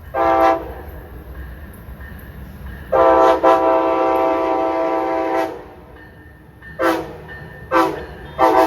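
Locomotive air horn of Amtrak train P041 sounding: a short blast, then a long blast of about two and a half seconds, then a quick run of short blasts near the end.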